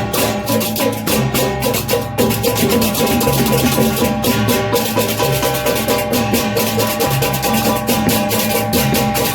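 Balinese processional gamelan music, most likely baleganjur: rapid, steady clashing cymbal strokes over ringing metallic tones and drums.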